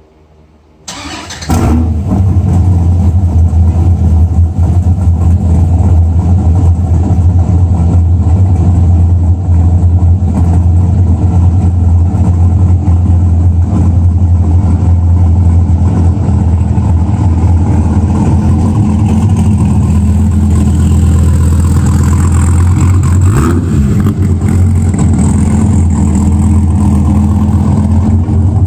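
Dodge Viper's 8.4-litre V10, fitted with Stage II heads and cam, Belanger long-tube headers and a 3-inch catless exhaust, cranks and fires about a second in and then idles loudly, echoing in an underground parking garage. Its pitch dips and rises briefly a few seconds before the end, and it then moves off.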